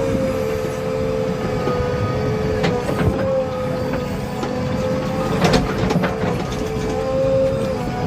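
Heavy diesel machine running with a steady whine and a few metal clanks, the loudest a little over five seconds in.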